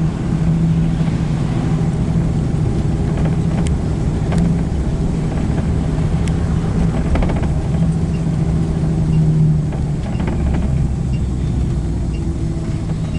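Steady engine hum and road rumble heard from inside a moving vehicle, unchanged throughout.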